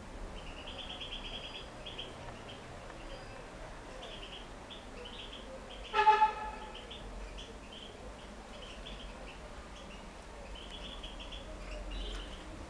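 Many small cage birds chirping in quick, short notes throughout. About six seconds in, a single short, loud honk like a horn toot cuts across them.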